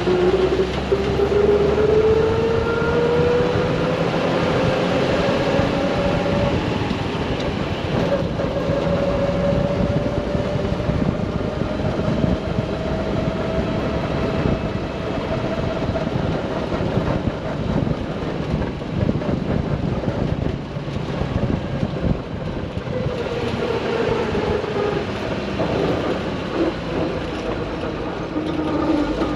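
1970 Toyota Land Cruiser on the move, its engine and drivetrain running under steady road and wind noise. A whine rises in pitch over the first few seconds as it picks up speed, holds, then falls near the end as it slows.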